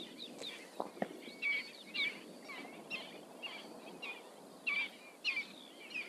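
Birds chirping and calling outdoors, many short quick notes sliding up and down, coming one after another.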